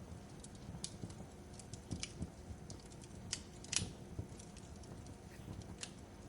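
Wood fire crackling: irregular sharp pops and snaps over a low, steady rumble, the loudest pop a little before four seconds in.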